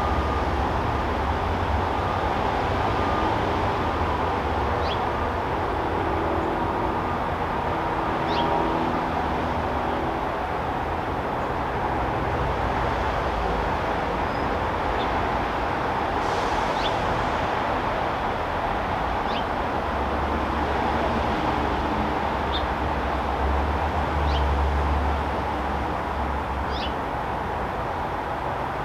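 Backyard ambience: a steady low rumble and hum of background noise, with short, falling bird chirps every two to three seconds.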